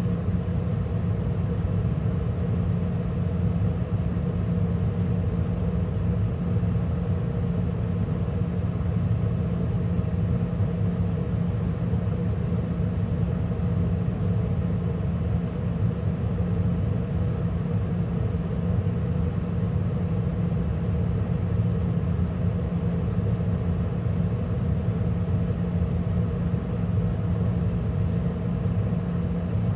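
Carrier gas furnace running steadily in mid-cycle, with burners lit, the draft inducer and the circulating blower all on: an even rumble with a steady hum.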